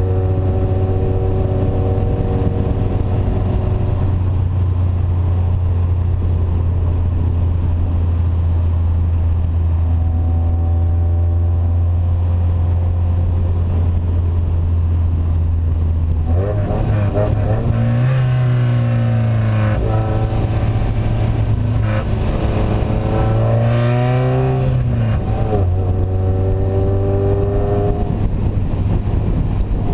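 Car engine with an open exhaust and no silencer, droning steadily at a constant speed. A little past halfway it revs up and back down twice, a few seconds apart, then settles back into the steady drone.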